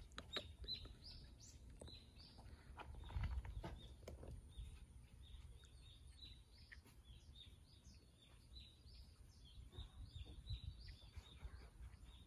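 Faint outdoor ambience: small birds chirping over and over, high-pitched, over a low rumble, with a few soft knocks about three to four seconds in.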